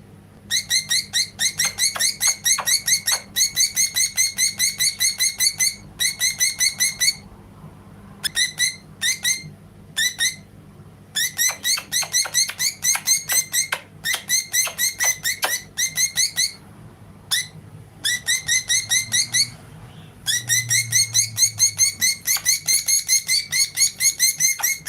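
Female budgie chirping non-stop: long runs of sharp, identical chirps at about five a second, broken now and then by short pauses. The owner links this constant calling to her having become a mother.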